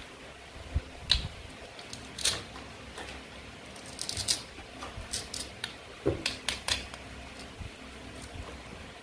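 Plastic or wooden toy fruit and vegetables being cut apart with a toy knife: a series of sharp clicks and cracks, bunched about four seconds in and again about six to seven seconds in.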